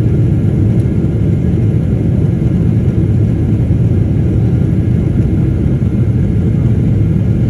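Steady low rumble of an airliner cabin in flight, engine and air noise with no distinct events.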